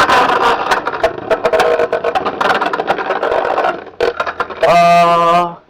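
Beyblade X spinning tops clashing and spinning in a plastic stadium just after launch: a flurry of sharp clacking hits, then a steady whirring as they spin. About five seconds in there is a brief, loud, steady held tone.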